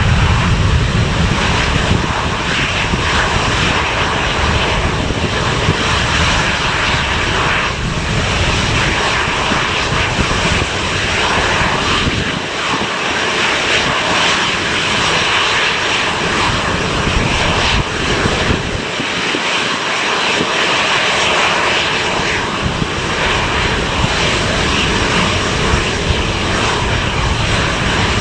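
Departing airliner's engines running at high power, a loud continuous roar with no break.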